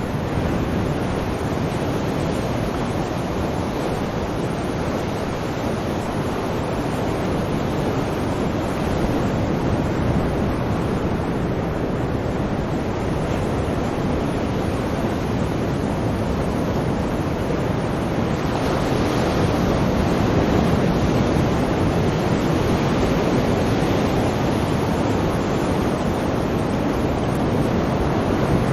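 Sea surf washing in a steady, continuous wash of noise, swelling slightly about two-thirds of the way through.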